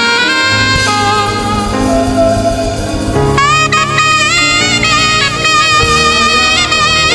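Saxophone playing a lead melody over band accompaniment in a gospel worship rehearsal. It holds a long note, then about three seconds in it moves into quicker phrases with slides between notes.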